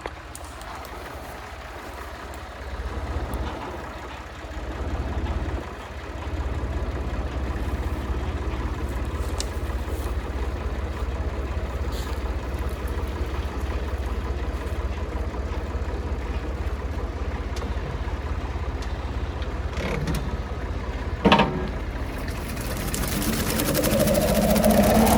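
Small tractor engine running steadily, with one sharp knock about 21 seconds in. Near the end the engine speeds up and a rising whine builds.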